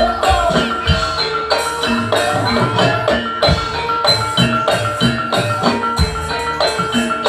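Javanese jaranan gamelan music: gong-chime and metallophone notes struck in a steady, even beat over drums, with a wavering melody line above.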